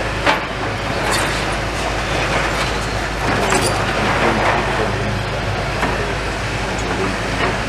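A steady low engine rumble, with scattered short knocks and clatters over it.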